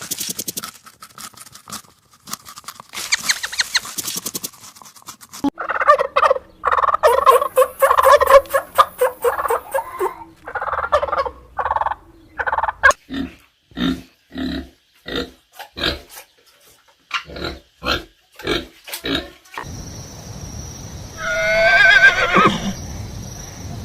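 A run of different animal calls one after another: dense, rapid pulsing calls, then a steady series of short calls about two a second, and near the end a single call that falls in pitch.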